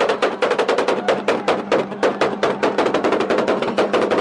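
Car engine revved hard and held at the rev limiter, its exhaust cracking in a rapid stutter of loud bangs, about eight or nine a second. The sound is really loud, like gunfire.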